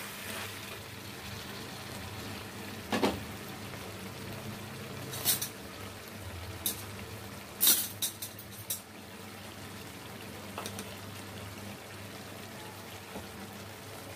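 Chicken curry gently frying and bubbling in a nonstick pan. A spoon knocks against the pan a few times in the first half, most clearly in a quick cluster about eight seconds in.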